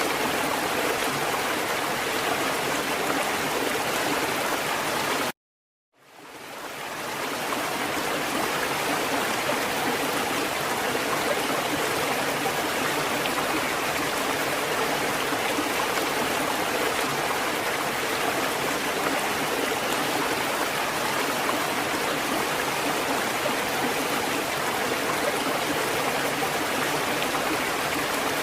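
Steady running water of a fountain. About five seconds in it cuts off abruptly to silence for under a second, then fades back in to the same steady flow.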